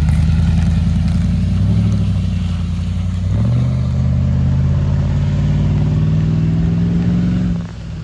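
Off-road vehicle's engine running under way, its pitch stepping between speeds and then climbing steadily through the second half before easing off sharply near the end.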